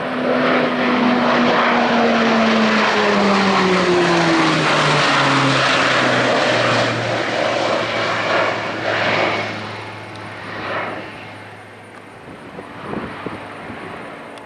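US Navy E-2 Hawkeye's twin turboprop engines on a fly-past. The propeller drone slides steadily down in pitch as the aircraft goes by, then fades away over the last few seconds.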